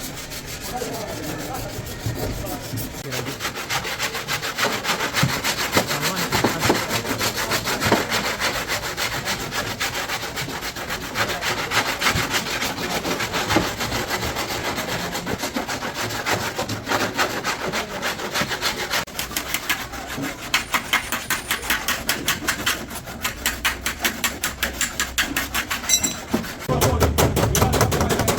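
Rusted sheet steel of a car floor panel being worked by hand with rapid back-and-forth strokes, a steady rasping scrape. The strokes grow heavier near the end.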